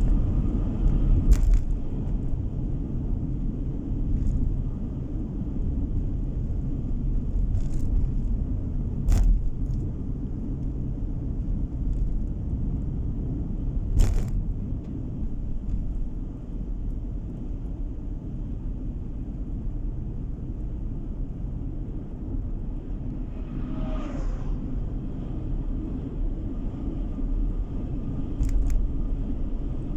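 Road and engine noise heard inside a moving car's cabin: a steady low rumble, with a few short sharp knocks and a brief falling squeak about three-quarters of the way through.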